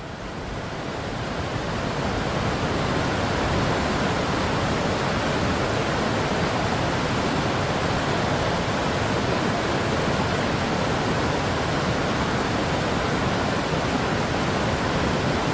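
Steady, loud rushing of a large waterfall, the Uchar falls on the Chulcha river, fading in over the first couple of seconds and then holding even.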